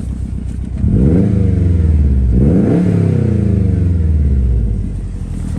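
2011 Subaru WRX STI's turbocharged 2.5-litre flat-four, breathing through a Tomei Expreme aftermarket exhaust, idling and then revved twice: the pitch climbs sharply about a second in, climbs again a little over two seconds in, then falls back to idle near the end.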